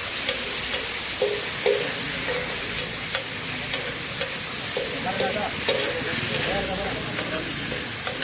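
Beef liver pieces sizzling on a large flat griddle while a metal spatula stirs them, scraping and knocking against the hot plate about twice a second over a steady frying hiss.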